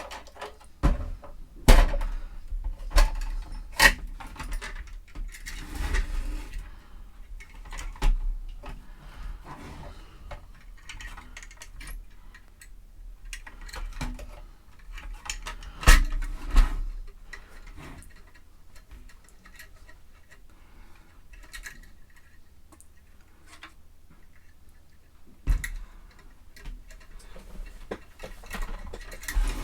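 Metal drill bits and their metal case being handled, making irregular clinks, clicks and knocks. The sharpest knocks come a couple of seconds in and about halfway through.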